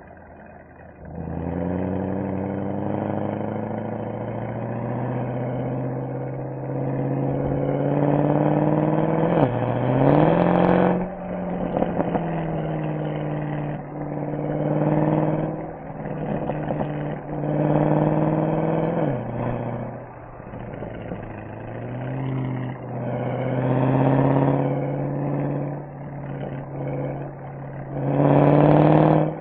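Mercedes-AMG SL63's V8 exhaust on the move, pulling hard several times, with rising pitch, quick drops at gear changes and easing off between pulls. The loudest pulls come about ten seconds in and just before the end.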